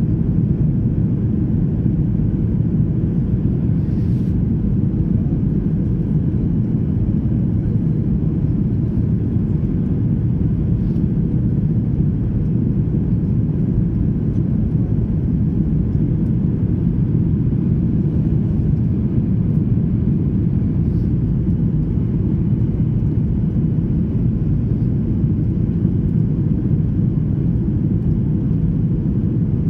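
Steady low rumble of a Boeing 737-800 airliner, holding one level throughout with no rising or falling whine.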